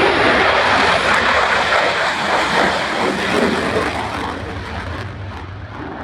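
F-16C Fighting Falcon jet engine roaring as the fighter passes during a display, loud at first and then fading away over the last couple of seconds.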